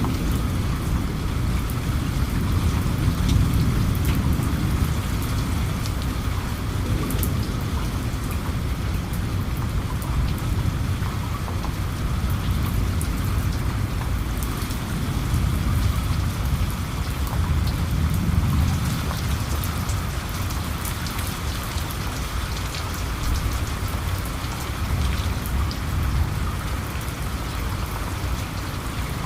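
Steady rain falling, with many small drops ticking on a surface and a low rumble underneath that swells now and then.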